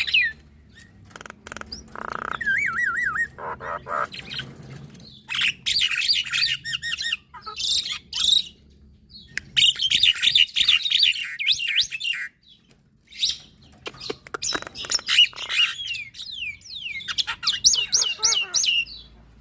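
Javan myna and black-winged starling singing together: bursts of rapid warbling whistles, chirps and trills broken by short pauses.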